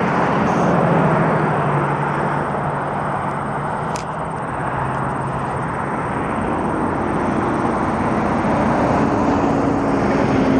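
The four Allison T56 turboprop engines of a CP-140 Aurora patrol aircraft at takeoff power on its takeoff roll: a loud, steady propeller and engine drone. A higher engine note comes in over the last few seconds, and there is a single sharp click about four seconds in.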